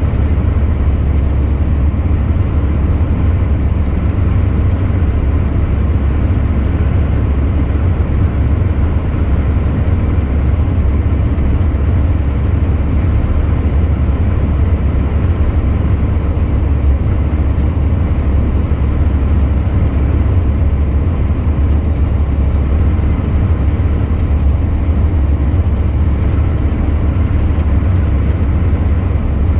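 Truck on the move: a steady low drone of engine and road noise, with no change in pitch or level.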